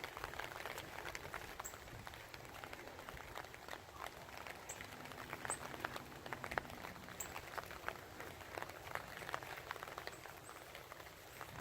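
Faint outdoor ambience: scattered small ticks and crackles over a low background hiss, with a few short, high bird chirps spread through it.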